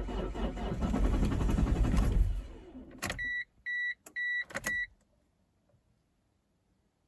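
Toyota 1CD-FTV 2.0 D-4D diesel turning over on the starter in a −23 °C cold start with freshly replaced glow plugs: about two and a half seconds of loud, uneven rumble that fades out. This is followed by four short, high-pitched electronic beeps.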